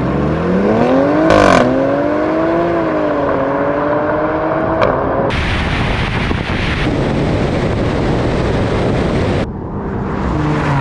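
Performance SUV engine accelerating hard from a drag-race launch, its note climbing, dropping at an upshift about a second and a half in, then climbing again. From about five seconds a loud wind and road rush takes over, easing off a little near the end.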